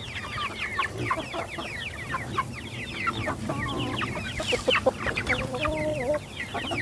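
A flock of month-old chicks peeping, many quick falling chirps overlapping without pause as they crowd around freshly poured feed. A lower, drawn-out wavering call sounds briefly near the end.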